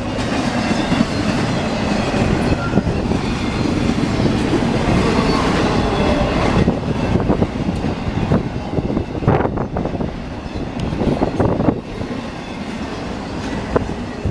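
Freight train cars rolling steadily past, with scattered sharp knocks from the wheels and cars.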